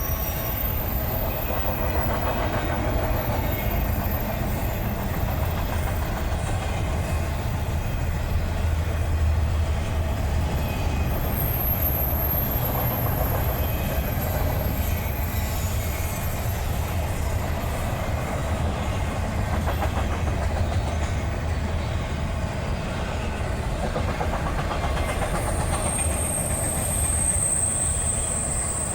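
A passing train, its cars rolling by with a steady low rumble and wheels clicking over the rail joints. A thin high wheel squeal comes in about eleven seconds in and again near the end.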